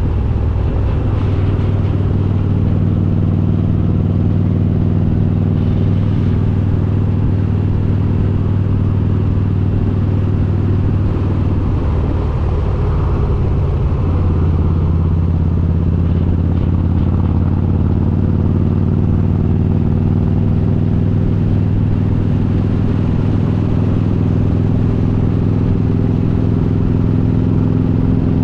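Harley-Davidson Road King's S&S 95-inch V-twin with Super Stock heads running steadily under way. Its exhaust note dips and wavers briefly about halfway through, then climbs slowly in pitch toward the end as the engine gains revs.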